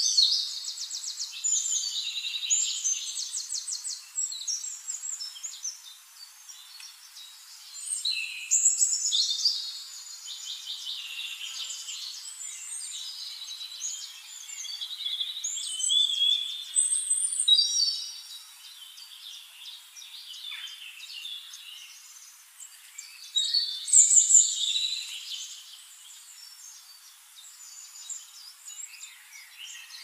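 Birds chirping and calling in bursts of quick trills and varied high notes, with quieter gaps between. The loudest bursts come right at the start, about nine seconds in and about twenty-four seconds in.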